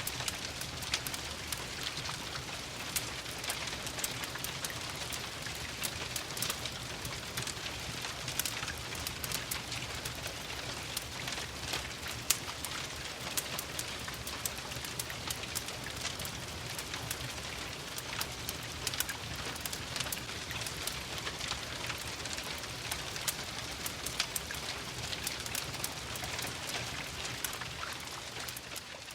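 Steady rain hiss mixed with a crackling wood fire, full of frequent sharp pops and snaps, over a low steady rumble; the sound begins to fade out near the end.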